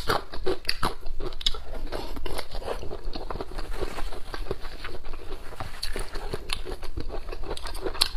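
A person chewing a mouthful of food close to a lapel microphone, a dense run of quick wet mouth clicks throughout.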